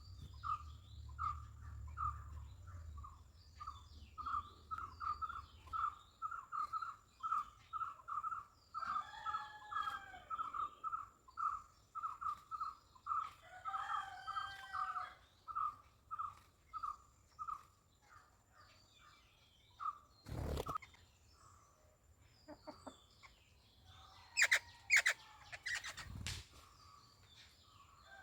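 Small birds calling in a garden. One bird repeats a short note about twice a second for most of the time, while others add scattered chirps and a couple of longer arching calls. Several sharp knocks come near the end.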